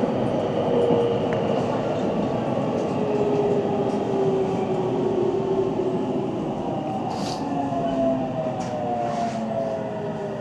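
JR Central 313 series electric train (motor car KuMoHa 313-3) running, heard from the cab: the traction motor whine falls steadily in pitch as the train slows, over constant wheel and rail noise, with a few sharp clicks in the second half.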